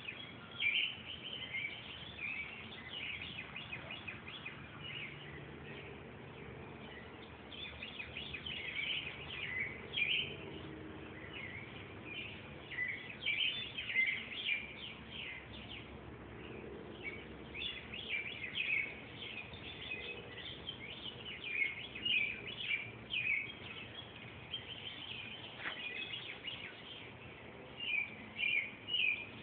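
Birds calling: clusters of short, high chirps repeated every second or two, some louder than others.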